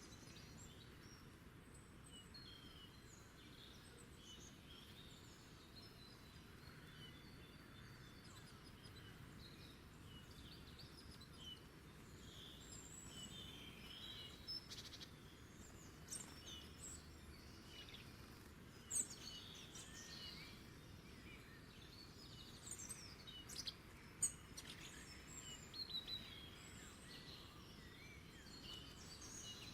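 Faint wild birdsong: scattered short chirps and calls from several birds over a soft steady hiss, growing busier in the second half. Two brief sharp sounds stand out above the rest, about two-thirds of the way through and a little later.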